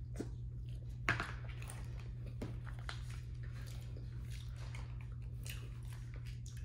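Close-miked chewing and small wet mouth sounds while eating mac and cheese, over a steady low hum, with a sharper click about a second in.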